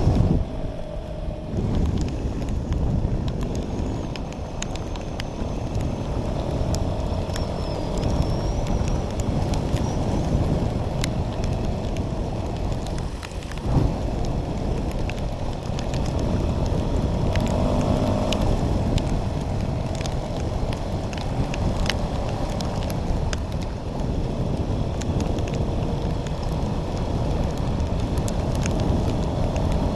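Off-road motorcycle engine running under way, its faint wavering tone half-buried under heavy wind buffeting on the microphone.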